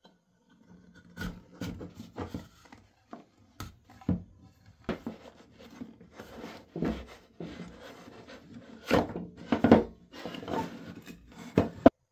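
Wood being worked by hand: irregular taps, knocks and short scraping strokes on wood, with one sharp knock near the end.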